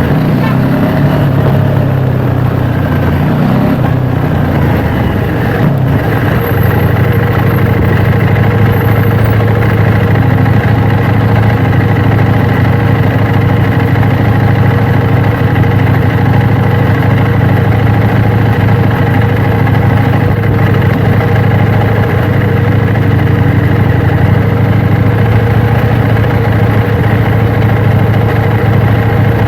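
KTM 790 Duke's parallel-twin engine running at steady revs. Its pitch wavers briefly in the first few seconds, then holds a constant, even note.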